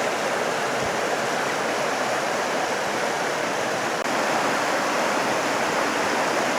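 Steady, even rushing hiss of rain and wind outdoors, unbroken throughout.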